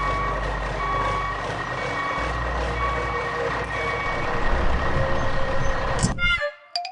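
Truck reversing alarm beeping about once a second over a steady engine rumble. The beeps stop about four seconds in while the engine noise carries on, then everything cuts off suddenly near the end.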